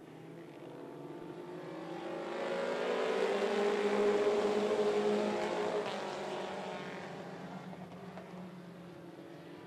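Race car engines passing by at speed, growing louder to a peak about four seconds in and then fading away.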